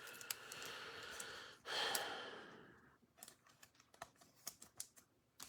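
Trading cards being handled and slid through the hands: soft sliding rustles, a louder one about a second and a half in, then a scatter of light clicks.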